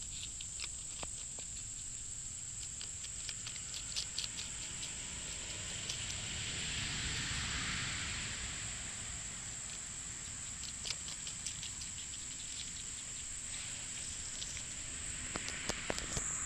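A steady, high-pitched insect drone, like crickets, with scattered sharp clicks and a swell of rustling hiss in the middle.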